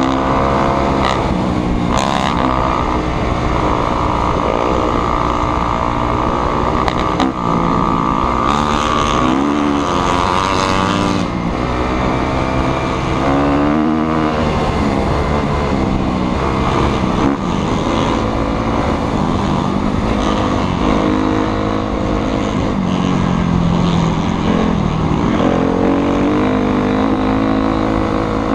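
Motocross motorcycle engines running hard, their pitch rising and falling over and over with the throttle.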